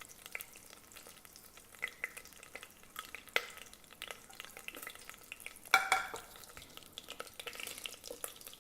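Whole spices sizzling faintly in hot butter and oil in a stainless pressure-cooker pot, with a spoon stirring and ticking against the pot, and a louder clatter about six seconds in.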